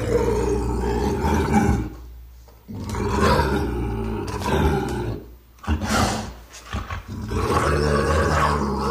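A large wild animal roaring in long, low calls, with two short pauses, about two and five seconds in.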